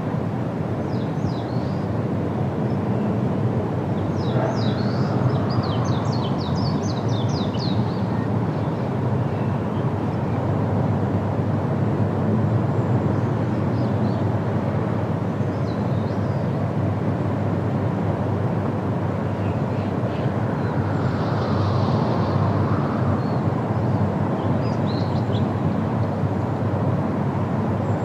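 Steady wind rushing through leafy trees, with small birds chirping high above it: a quick run of chirps about four to eight seconds in, and a few short calls later.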